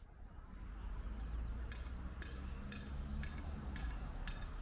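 Low steady rumble with a run of sharp clicks starting about a second and a half in, roughly two a second, and a few faint short bird chirps.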